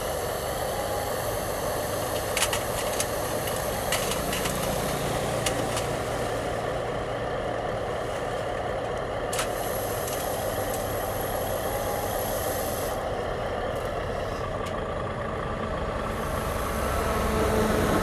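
Remote-control metal model construction trucks working: a steady engine-like drone, broken by a few sharp clicks and knocks. Near the end it grows louder and a higher steady whine comes in.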